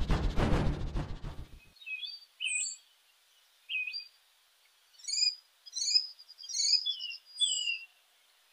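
A low music cue dies away in the first second or so. Then birds chirp in short, high, scattered calls, a few at a time at first and busier from about halfway on, a dawn birdsong effect.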